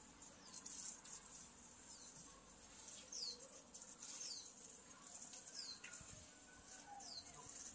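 A small bird faintly repeating a short, high, down-slurred call every second or so, over a faint steady high hiss.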